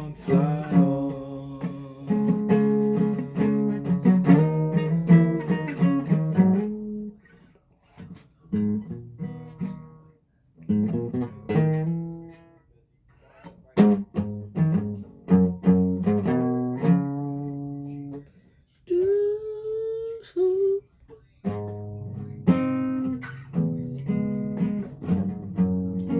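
Guitar played between sung verses, strummed and picked chords with a few short pauses where the playing stops. About two-thirds of the way through, a short gliding wordless vocal note.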